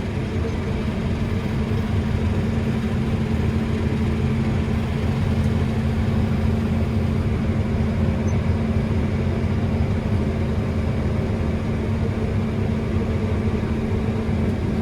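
Steady low drone of a New Holland combine harvester running, heard from inside its cab, with a constant hum and no change in speed.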